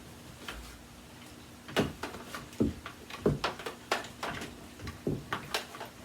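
Irregular clicks and knocks of a vintage Hoover Decade 80 upright vacuum being handled while switched off. The clicks start about two seconds in and come several a second.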